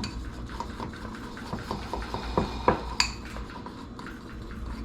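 A metal utensil clinking and scraping against a bowl while stirring, with a few sharper clinks about two and a half to three seconds in.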